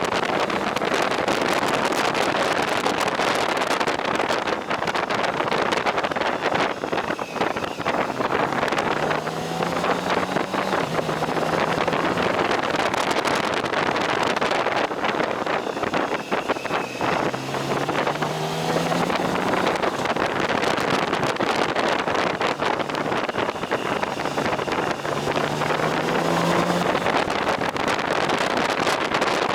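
Motorcycle riding at speed, with heavy wind noise buffeting the microphone. A low engine note rises in steps and drops back about three times as the rider accelerates and shifts.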